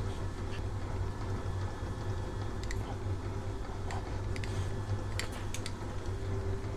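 Phase converter running with a steady electrical hum and a steady higher tone, with a few light clicks scattered through.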